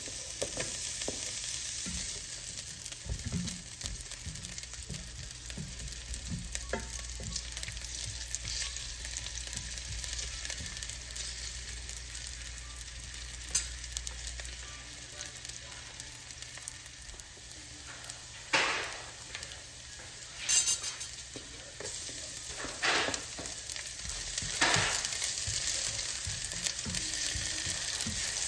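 Sliced shallots and garlic sizzling steadily in hot oil in a stainless steel pan. In the second half a spatula stirring them gives a few sharper scrapes and knocks against the pan.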